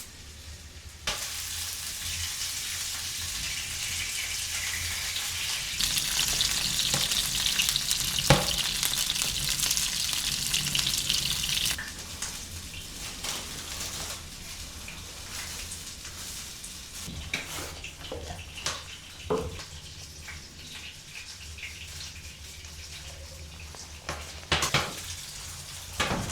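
A steady sizzling hiss that starts suddenly about a second in, grows louder, then drops off sharply about twelve seconds in, with a few scattered sharp knocks in the quieter second half.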